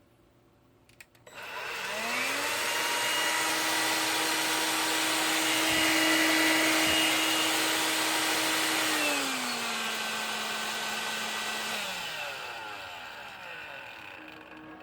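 Electrolux ZB3006 cordless stick vacuum's motor, now powered by a rebuilt 18650 lithium-ion battery pack, switched on and spinning up to a steady whine with a rush of air. About nine seconds in it drops to a lower speed, then it is switched off and the whine falls away as the motor winds down.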